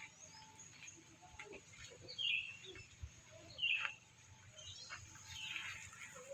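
Birds chirping in short calls, loudest about two seconds and three and a half seconds in, with more calls near the end, over a faint background hum.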